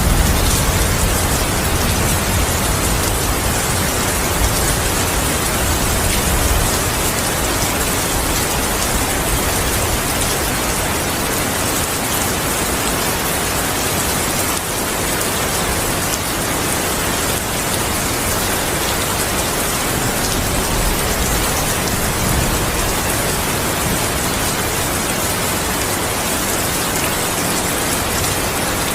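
Steady heavy rain falling, an even hiss throughout, with a low thunder rumble dying away in the first few seconds.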